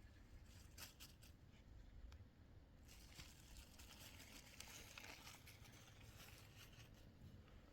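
Near silence: faint rustling with a few light clicks, a little busier in the middle.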